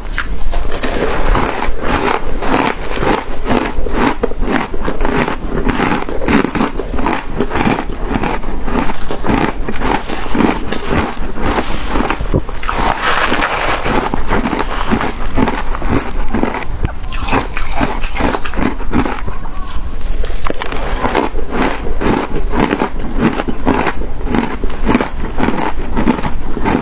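Crunchy shaved ice being bitten and chewed close to the microphone: a continuous run of loud, sharp crunches and crackles.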